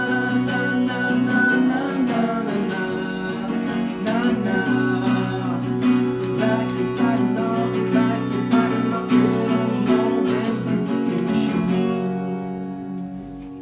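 Solo acoustic guitar strummed in steady strokes through the song's closing chords, the last chord ringing and dying away near the end.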